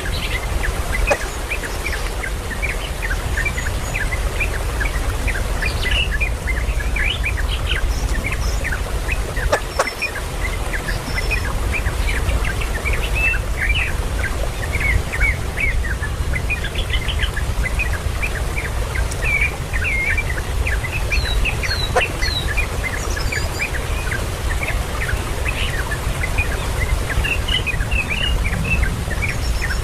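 Many small birds chirping: short, high calls in quick, overlapping succession, over a steady low rumble.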